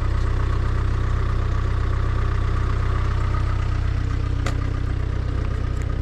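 Audi A4 B9 2.0 TDI four-cylinder diesel idling steadily about two minutes after a cold start.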